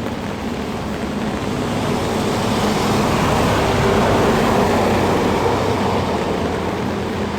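Steady hiss of rain with a motor vehicle going by, swelling in the middle and easing off.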